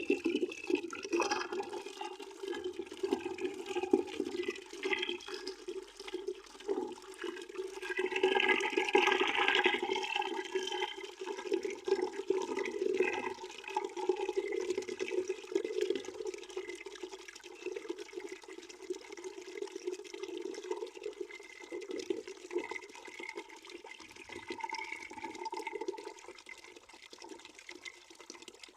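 Water flowing into a bucket as it fills: a steady splashing with a steady low tone under it, louder for a few seconds about a third of the way in.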